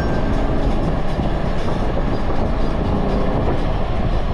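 A car driving on the road: a steady, dense low rumble of engine and road noise.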